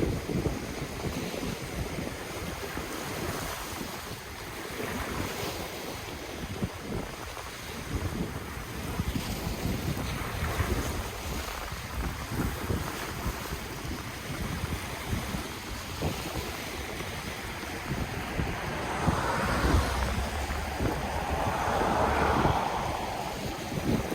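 Ocean waves washing on the shore, with wind buffeting the microphone. A wave surges in louder about two thirds of the way through and lasts a few seconds.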